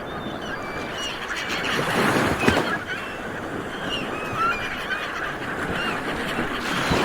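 A flock of seabirds calling: many short, overlapping calls over a steady wash of background noise.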